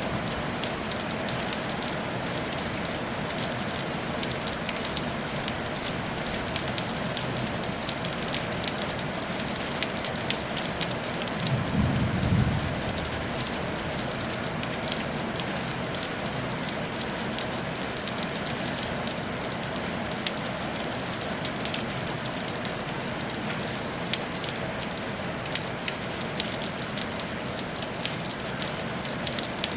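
Steady rain falling on a tile roof, an even hiss dotted with individual drop ticks. About twelve seconds in, a short low rumble rises briefly over the rain.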